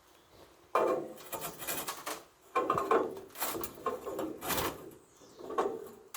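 Scraping and knocking as a bee hive stand is shifted and worked into place to steady it, in several rough bursts about a second apart.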